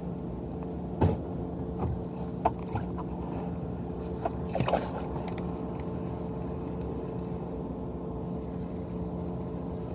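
A few light knocks and taps on a kayak as gear is handled, the loudest about a second in and a small cluster near the middle, over a steady low hum.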